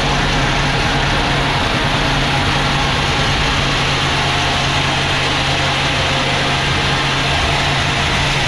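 Sawmill machinery running steadily: a loud, even engine drone with a low hum, holding at one speed throughout.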